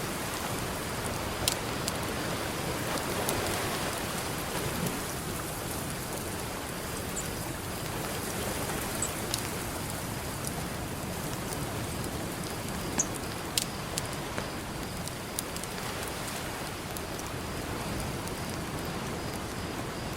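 Campfire crackling, with scattered sharp pops, over a steady wash of ocean surf.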